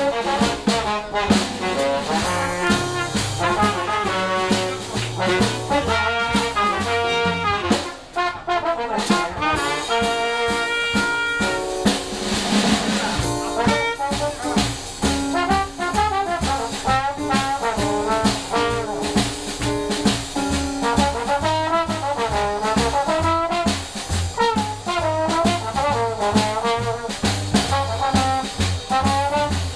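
A live jazz band playing, with horns carrying the tune over a walking bass line and drums. About eight seconds in the music eases briefly, then the horns hold a long chord before the tune goes on.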